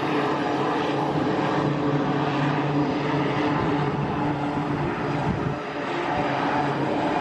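A fixed-wing aircraft's engine running steadily, with a low hum, and briefly easing off about five seconds in.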